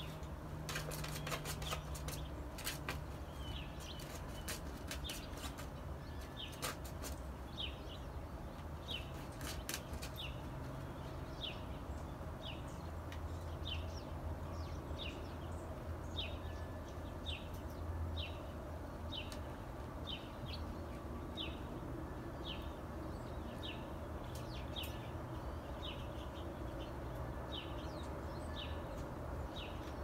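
A songbird repeating one short, high, down-slurred chirp about every two-thirds of a second from about eight seconds in, with scattered sharp clicks and flutters in the first ten seconds. Under it runs a low, steady outdoor rumble.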